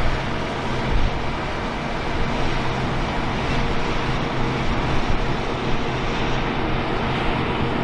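International 1460 Axial Flow combine running steadily while cutting wheat: a constant engine drone under a dense hiss of threshing and machinery noise.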